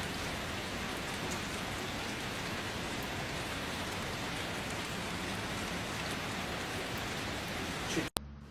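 Steady, even rushing noise like heavy rain, with no pitch or rhythm, cutting off abruptly near the end.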